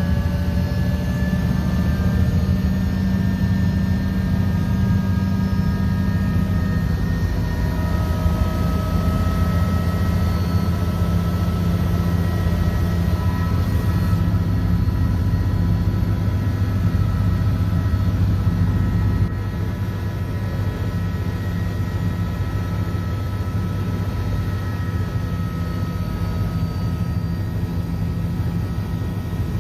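Helicopter in flight, heard from inside the cabin: a steady low rotor and engine drone under a high turbine whine whose tones drift slowly in pitch. It drops slightly in loudness about two-thirds of the way through.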